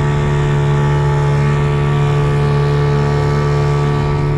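Motorboat engine running at a steady speed: a constant loud hum with a strong low tone and an even stack of overtones, with no change in pitch.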